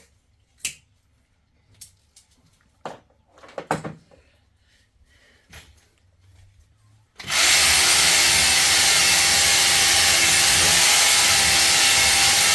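A few scattered knocks and clicks, then an electric drill starts abruptly just past halfway through and runs steadily and loudly.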